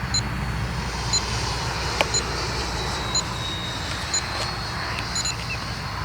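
Electric ducted-fan RC F-16 jet flying, a steady high fan whine over low wind rumble. Short electronic beeps sound about once a second, doubled near the end, and there is one sharp click about two seconds in.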